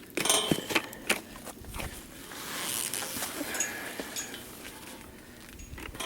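Steps and hoof knocks of horses and burros moving about, a cluster of sharp knocks in the first second, then a longer hissing noise from about two and a half seconds in.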